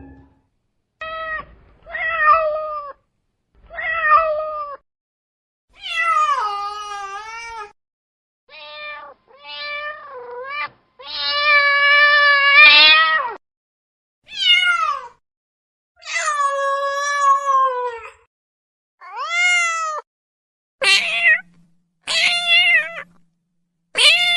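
Domestic cats meowing, one call after another with silent gaps between: about fifteen meows, some short, some drawn out, the longest lasting about two seconds near the middle.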